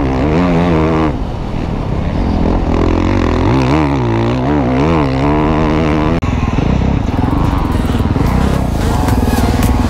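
Motocross bike engine revving up and down as it is ridden, the pitch rising and falling over and over. About six seconds in it cuts abruptly to a rougher, steadier engine sound.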